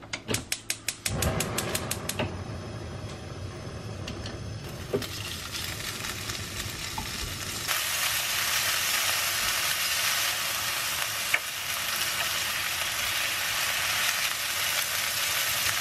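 Gas stove igniter clicking rapidly for about a second, then minced pork and sliced green onion sizzling in oil in a nonstick wok while being stirred with a spatula. The sizzle gets louder about eight seconds in.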